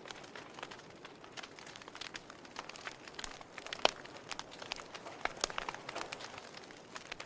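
Wood fire burning in a fireplace, crackling with irregular sharp pops over a soft steady hiss; one louder pop about halfway through.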